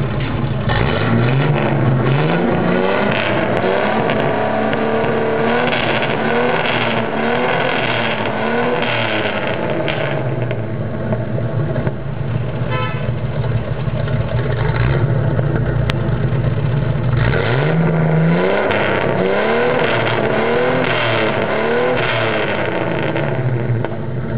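Chevrolet 400 engine blipped repeatedly through its muffler, each rev rising and falling back. The first half holds several revs, then it settles to a steady idle for several seconds, then a second series of revs follows near the end.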